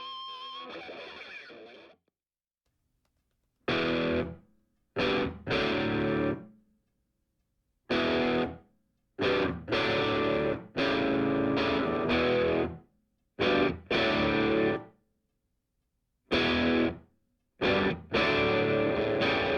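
Background music of distorted electric guitar playing chords in stop-start blocks, with sudden dead-silent gaps between them; a fading note opens it, followed by about two seconds of silence before the chords begin.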